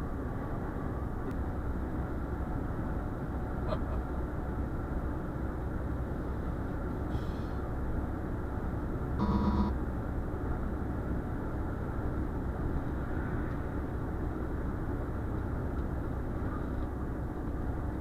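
Steady low rumble of a Renault Trucks T520 cab on the move, its six-cylinder diesel and road noise heard from inside. About nine seconds in, a brief, louder beep-like tone sounds once.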